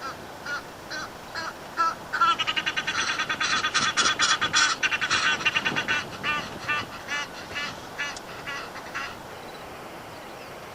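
Bird calls in a repeated series: spaced calls speed up into a loud, rapid chatter about two seconds in, then slow down again and stop near the end.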